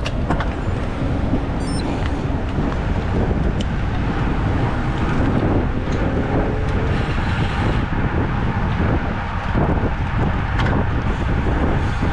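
Wind rushing over the microphone with road and tyre noise while riding a road bike, a steady loud rush.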